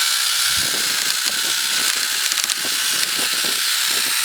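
Kingson 10.8V cordless chainsaw, used as a handheld saw, running steadily with its electric motor and chain giving a loud, even hiss.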